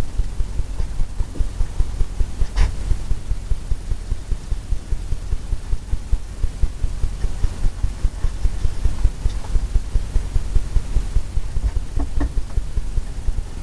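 Blender brush tapped repeatedly against a canvas on an easel, a steady run of dull low thumps about four a second.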